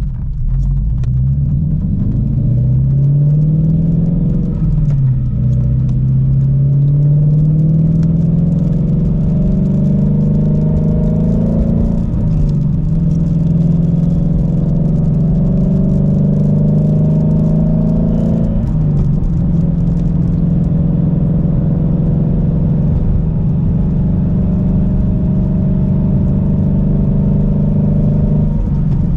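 Ford Mustang Shelby GT350's 5.2-litre flat-plane-crank V8 pulling gently up through the gears. Engine pitch climbs, falls at upshifts about 5, 12 and 19 seconds in, then holds steady at a cruise.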